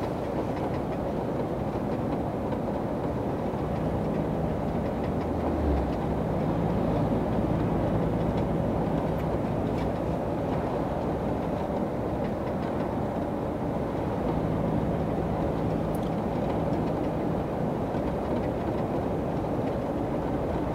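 Steady engine drone and road noise heard inside a moving truck's cab.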